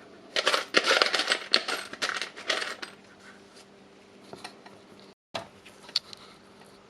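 Small metal parts clattering and rattling in a dense run of clicks for about three seconds, as screws are rummaged through while hunting for a missing screw; a few lighter separate clicks follow.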